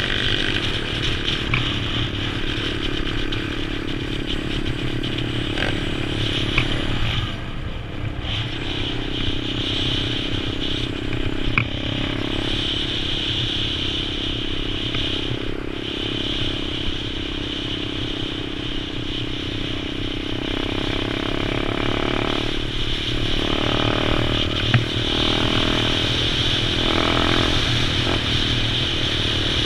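Pit bike engine running steadily while riding a trail, easing off briefly about seven seconds in and rising and falling with the throttle later on. A few sharp knocks and rattles from the bike over rough ground.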